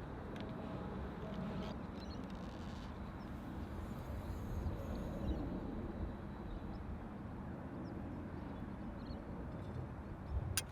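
Steady wind rumble on the microphone. At the very end comes one sharp snap of a recurve bow being shot, the loudest sound.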